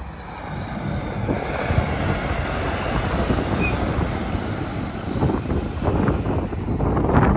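A heavy truck passing close by: engine and tyre rumble swell in the first second and stay loud, with a few sharper surges near the end.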